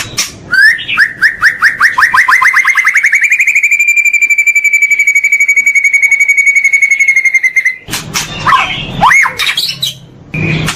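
A songbird singing. A run of down-slurred notes speeds up and merges into a fast, even rattle held at one pitch for about four seconds, then breaks off near the end into varied rising and falling whistles.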